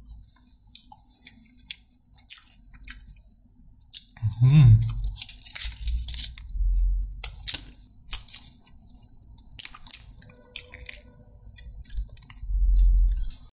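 Close-miked eating: chewing and biting into food, with wet mouth clicks and crunchy crackles. A brief, louder low sound comes about four and a half seconds in, and there are heavier, fuller chewing surges near the middle and near the end.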